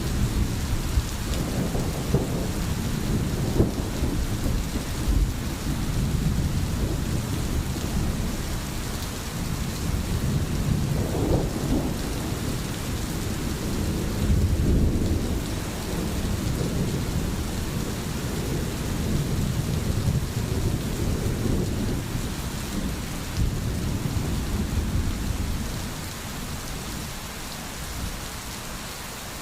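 Steady rain falling, with low rolling thunder rumbling underneath that swells and fades, strongest about halfway through, and eases off a little near the end.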